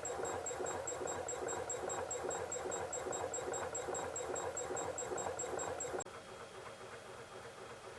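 Homemade big solenoid engine running with a fast, regular clicking and rattling; about six seconds in the sound drops suddenly to a quieter level and keeps running.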